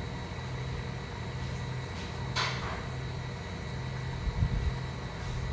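Steady low rumble inside a moving train carriage, with a low hum that pulses on and off about once a second. A single sharp click comes about two and a half seconds in, and a few light knocks near the end.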